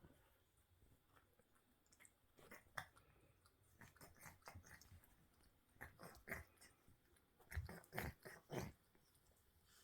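Cat grooming his rain-wet fur: short licking and smacking sounds in small clusters, the loudest run near the end.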